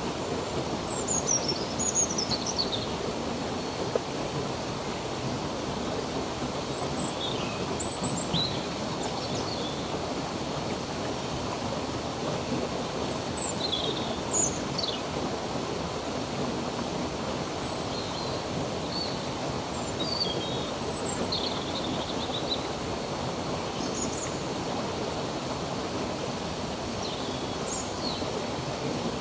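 A stream of running water rushing steadily, with songbirds chirping in short high calls and trills every second or two over it.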